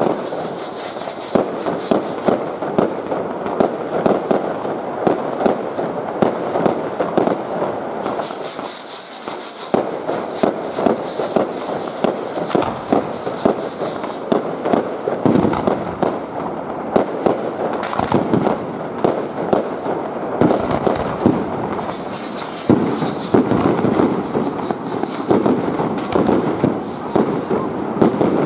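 Fireworks display going off in a dense, continuous barrage of sharp bangs and crackling, with stretches of high hissing.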